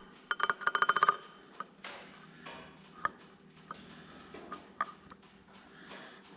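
Rapid, evenly spaced metallic clicking with a ringing edge for about a second, followed by a few scattered light metal clinks as engine parts and tools are handled.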